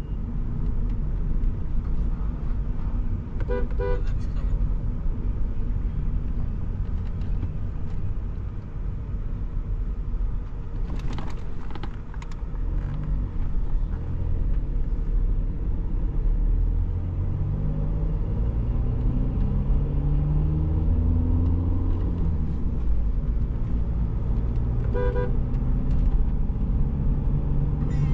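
Diesel engine of a Stage 2 tuned VW Polo with a full exhaust, running under way. In the second half its note climbs in several rising sweeps as it accelerates through the gears. A car horn toots briefly twice, once near the start and once near the end.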